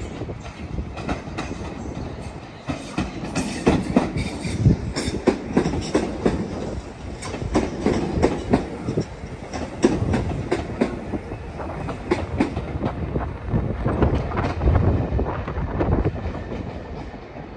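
A train rolling past, its wheels knocking over the rail joints in a long run of sharp, irregular clatters over a low rumble, building up a few seconds in and easing near the end.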